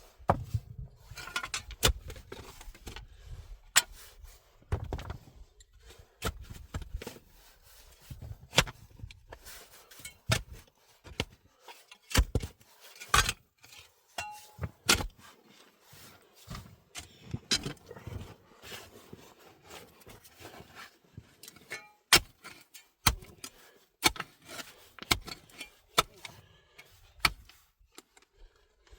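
Irregular sharp knocks, clicks and scrapes, often a second or less apart, with low rumbling among them in the first several seconds.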